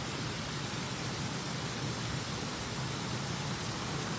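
Steady rushing of flowing river water, an even hiss with no change or breaks.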